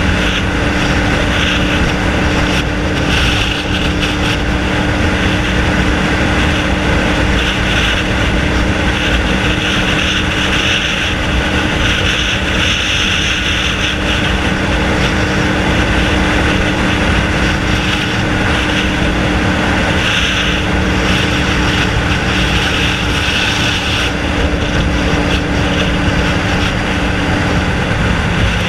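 Honda VFR 750F's V4 engine running without a muffler, held at a steady pitch under way; the engine note changes near the end.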